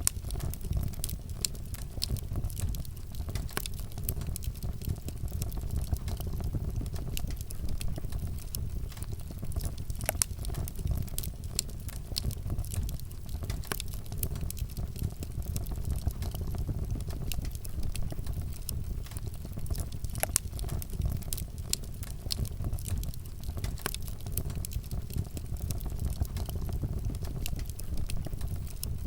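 Wood fire burning, with a steady low rumble of flames and frequent sharp crackles and pops scattered throughout.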